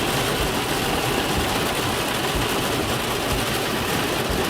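Steady rush of heavy thunderstorm rain and wind, with an uneven low rumble underneath.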